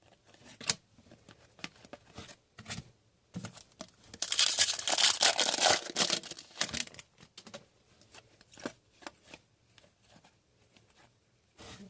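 A foil hockey-card pack being torn open and crinkled: a dense ripping, crinkling rustle about four seconds in that lasts some three seconds, with light clicks and rustles from handling before and after.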